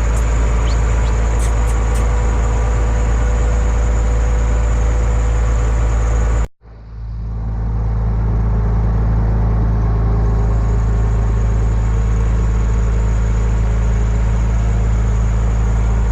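Locomotive engine running steadily under load, heard from the cab: a deep, even rumble. The sound cuts out abruptly for a moment about six and a half seconds in, then quickly fades back to the same steady running.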